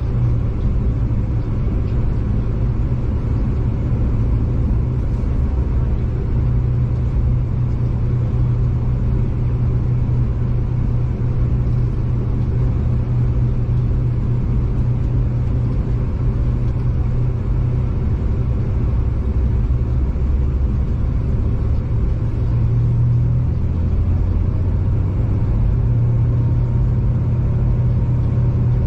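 Steady low rumble of a V/Line diesel passenger train in motion, heard from inside the carriage: engine drone and wheel noise on the rails, with no sudden events.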